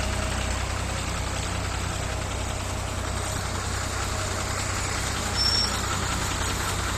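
Motor vehicles idling, a steady low engine hum under general traffic noise. A brief high-pitched tone sounds about five and a half seconds in.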